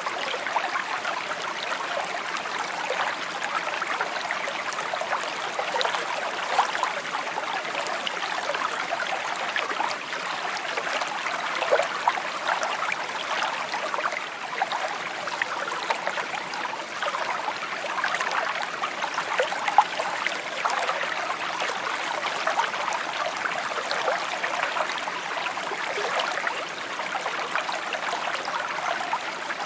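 A small stream babbling and trickling steadily over stones, with many small splashes and gurgles on top.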